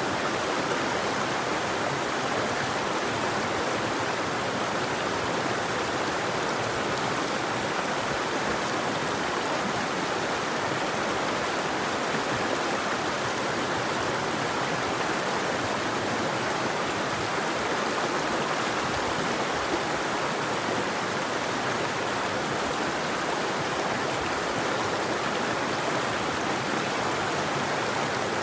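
River water flowing, a steady even rushing with no breaks or other sounds standing out.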